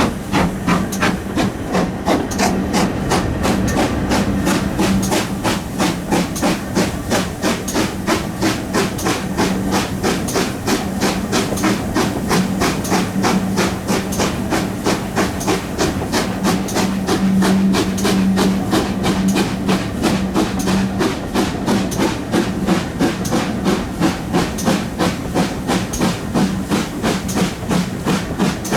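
Steam locomotive 7820 Dinmore Manor, a GWR Manor class two-cylinder 4-6-0, working hard, its exhaust beating sharply and evenly several times a second. A steady low drone runs under the beats and stops about three-quarters of the way through.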